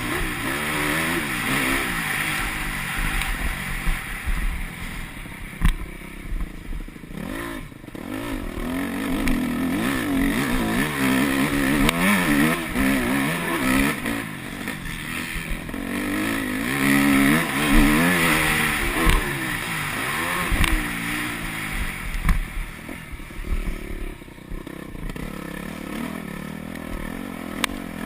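Yamaha YZ250F four-stroke motocross engine revving up and falling off again and again as the bike is ridden, picked up on a bike-mounted action camera with wind noise, and a few sharp knocks over the bumps.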